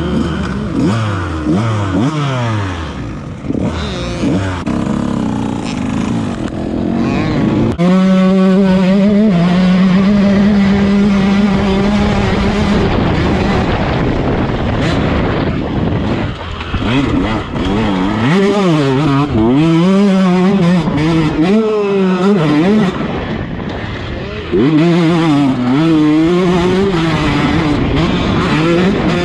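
2019 KTM 150 SX two-stroke single-cylinder dirt bike engine revving hard as it is ridden, its pitch climbing and dropping again and again through the gears. About a third of the way in the revs jump up and are held high and steady for several seconds.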